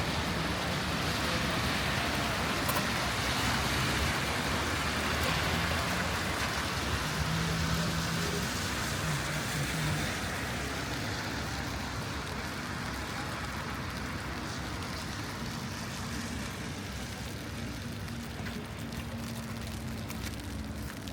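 City street ambience in wet weather: a steady hiss of traffic on a wet road mixed with rain, louder for the first half and then easing off.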